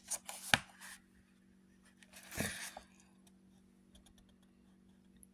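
Paper pages of a thin comic booklet being turned: two short rustling page flips about two seconds apart, the first with a sharp crisp snap, followed by a few faint ticks.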